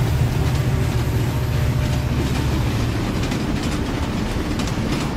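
Toy steam locomotive and coal carriage running along a plastic track: a steady rumble that gradually fades as the train moves off.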